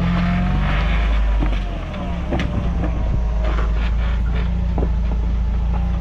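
Off-road 4x4 truck engine running at low crawling speed as the truck works over rocks, the throttle easing off briefly about two seconds in. A few sharp knocks come from the truck on the rock, the loudest about two and a half seconds in and a second near the end.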